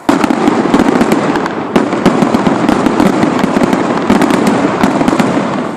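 Fireworks going off in a dense barrage of rapid bangs and crackles that starts abruptly and stops shortly before the end.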